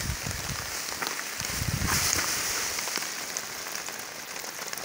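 Light rain falling on gravel as a steady hiss, with a few low dull bumps in the first two seconds.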